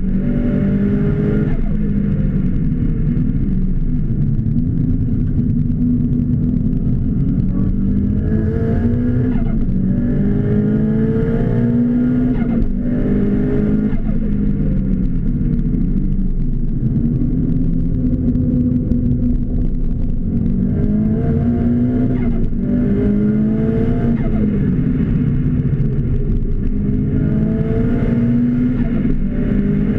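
Car engine heard from inside the cabin while it is driven at speed. The pitch climbs again and again and drops back at each gear change, over a steady low rumble.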